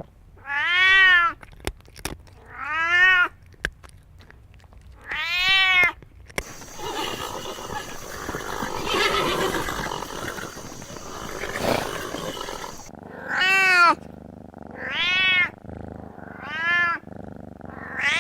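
A cat meowing repeatedly, each call about a second long and arching up then down in pitch. The calls pause for several seconds in the middle, where only a noisy hiss is heard.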